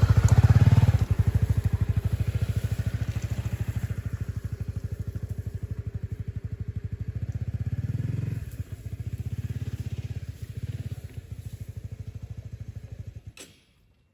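Motorcycle engine running at idle with a fast, even pulsing beat, dipping briefly, then switched off near the end with a click.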